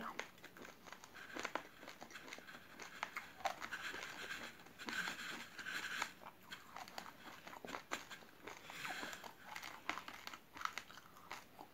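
Chewing a mouthful of jelly coated in uncooked rice grains: faint, irregular crunching and small clicks as the hard raw rice breaks between the teeth.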